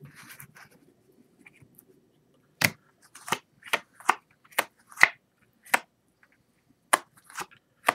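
Playing cards being turned over one at a time and laid down on a table, with a sharp snap for each card, about ten in all over the last five seconds. A soft rustle of cards comes near the start.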